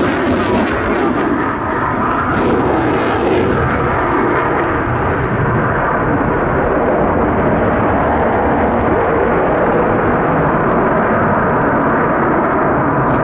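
Loud, continuous jet noise from a Eurofighter Typhoon's twin EJ200 turbofan engines in flight. A hissing, crackling top end is present at first and dies away after about three to four seconds, leaving a duller, steady rumble.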